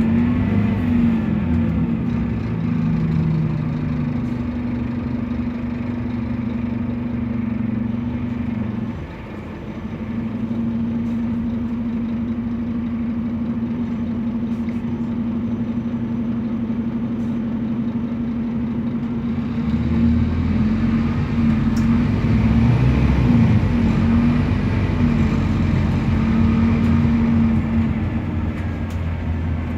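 Scania DC9 280 hp diesel engine of a city bus running under way, steady. Its level drops briefly about a third of the way in. From about two-thirds in it runs louder and heavier as the bus pulls harder, then eases off near the end.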